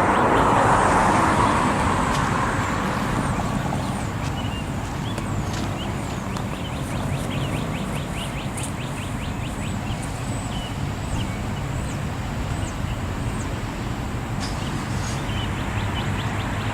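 Outdoor traffic rumble, loudest in the first couple of seconds as a vehicle goes by and then easing off to a steady background, with birds chirping over it.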